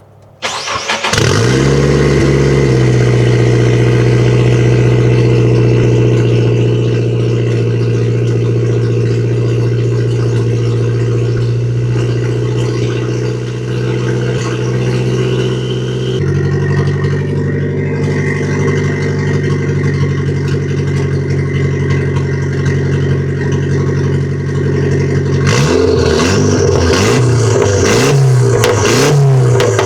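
Nissan SR20 inline-four engine starting about a second in and settling into a steady high idle, which drops to a lower idle about halfway through. Near the end it is revved in several quick throttle blips. The engine has a random misfire and breaks up, which freshly re-gapped plugs have not cured; the owner suspects the coil packs.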